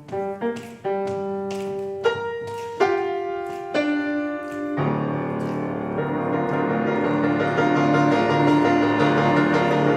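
Piano playing the introduction to a gospel song: separate notes and short chords at first, then from about five seconds in a fuller, sustained sound that grows slightly louder.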